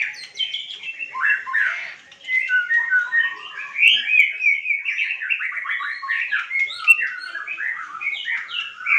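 White-rumped shama (murai batu) singing a fast, varied run of whistled and chattering notes, with a brief pause about two seconds in.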